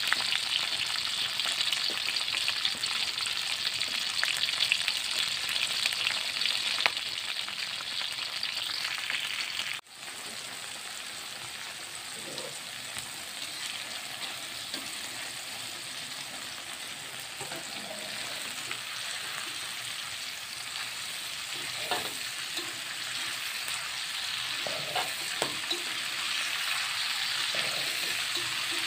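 Chillies, tomatoes, shallots and garlic frying in hot oil in a wok: a steady, crackling sizzle. About ten seconds in it breaks off briefly and resumes quieter, building again, with a few short scrapes and knocks of a utensil stirring and scooping in the wok.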